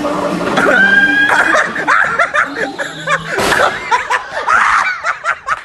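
A group of people laughing loudly together, several voices overlapping in bursts.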